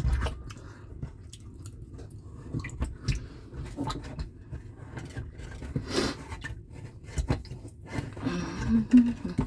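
Scattered small clicks, knocks and wet scraping from hands cleaning dishwasher and drain parts, with one sharper click about six seconds in.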